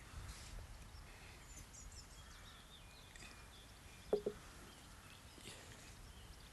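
Faint birdsong, with scattered chirps. A little after four seconds in, two brief knocks in quick succession stand out as the loudest sound.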